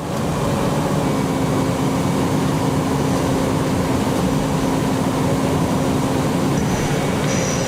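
Steady drone of a running engine, with an even low hum and noise throughout. Faint high-pitched tones come in near the end.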